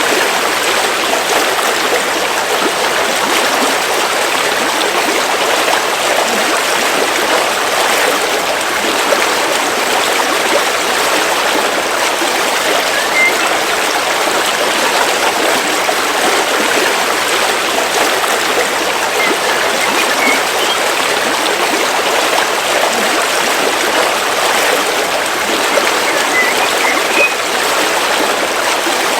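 River water flowing steadily, a continuous rushing of a stream.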